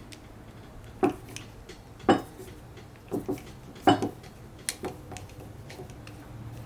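Metal parts of a bench vise clanking as they are handled and set down on a hard surface: about seven sharp clanks, a few ringing briefly, the loudest about two and four seconds in. A low steady hum runs underneath.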